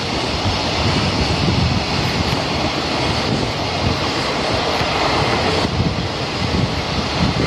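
Freight train hauled by an EF210 electric locomotive passing through a station, a steady rumble of wheels on the rails, with strong wind buffeting the microphone.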